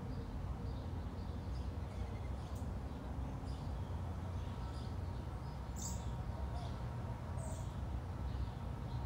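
Birds chirping, short scattered calls every so often, over a steady low outdoor rumble.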